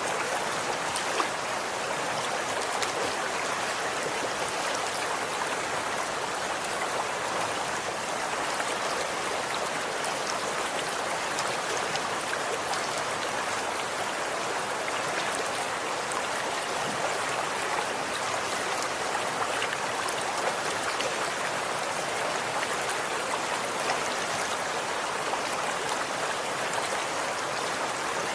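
Stream of water flowing steadily, an even rushing with small splashes and no change.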